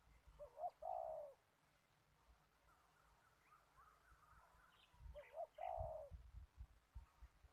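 A dove cooing twice, about five seconds apart. Each call is a couple of short notes running into a longer rolling coo. Faint chirps of small birds sound in between.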